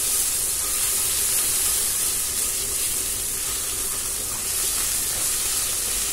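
Ginger paste and whole spices sizzling in hot ghee and oil in a kadai while being stirred with a silicone spatula: a steady high hiss of frying.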